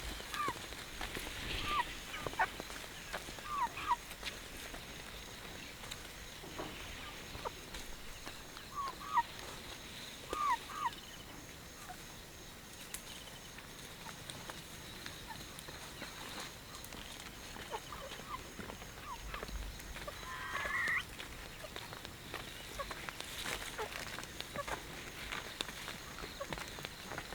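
Chickens giving short calls, often two at a time, scattered over a quiet rural background, with a louder call about two-thirds of the way through and light rustling or steps near the start and end.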